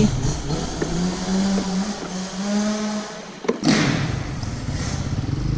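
Kawasaki KX450F dirt bike's single-cylinder four-stroke engine running at low revs, its pitch rising and falling with the throttle. The engine eases off about three seconds in, then comes back louder after a sharp knock.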